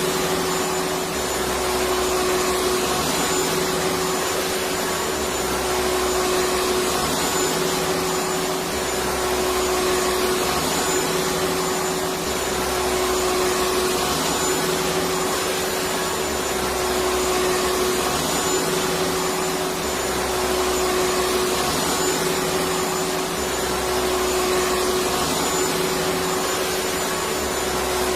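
Electric vacuum cleaner running steadily, an even rushing noise with a constant hum.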